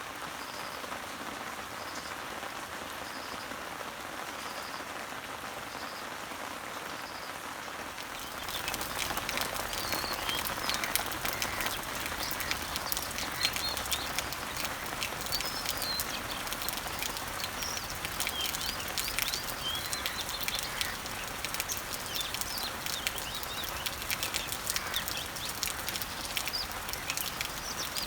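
Rain falling on garden leaves and trees as a steady hiss, with a bird repeating a short high note about once a second. About eight seconds in, the rain turns louder with dense drips and patter, and birds chirp throughout.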